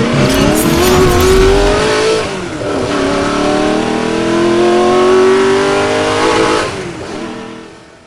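Hyundai Venue N-Line's 1.0-litre three-cylinder turbo petrol engine accelerating hard. Its pitch climbs for about two seconds, drops at an upshift of the dual-clutch gearbox, then climbs again more slowly and fades out near the end.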